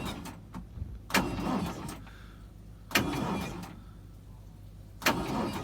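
Car engine being cranked in three short attempts, each under a second, on a cold start that fails: it does not catch and keep running.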